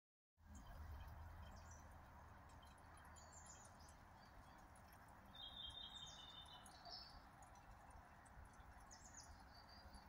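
Faint birdsong in woodland: scattered short high chirps and calls, with one longer call about five to six seconds in, over a quiet steady hiss and a faint low rumble.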